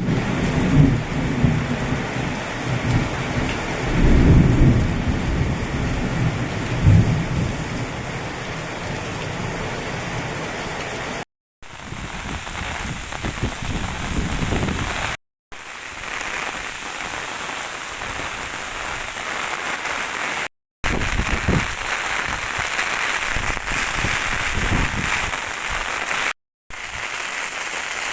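Heavy rain pouring steadily, with low rumbles in the first several seconds. It comes as a run of separate recordings, broken by brief dead gaps where they are cut together.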